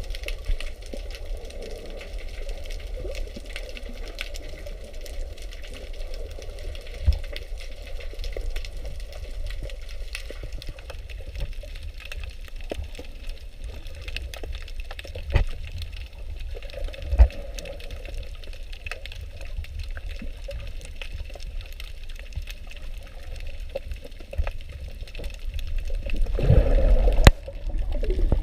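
Water splashing and rushing, with a steady low rumble underneath and a few short knocks. The rush swells louder near the end.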